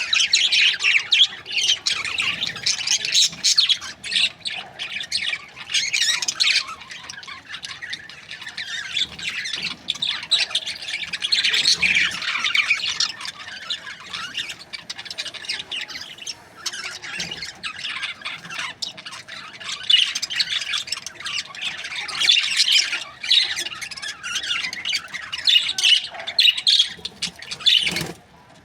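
Many budgerigars chirping and squawking over one another in a continuous, busy chatter.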